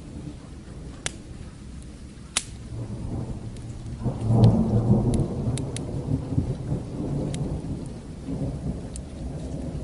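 A long roll of distant thunder swells about three seconds in, is loudest a second or two later, and dies away over several seconds, over a steady bed of rain. Sharp pops from a crackling fire are scattered through, two louder ones early on.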